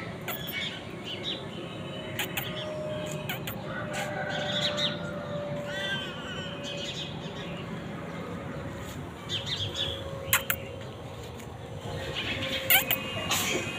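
Birds chirping and squawking in short scattered calls, with a few sharp clicks near the end.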